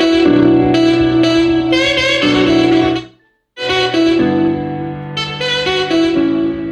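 W King T9 portable Bluetooth party speaker playing instrumental music with a saxophone-like lead over a bass line. The music cuts out for about half a second roughly three seconds in, then resumes.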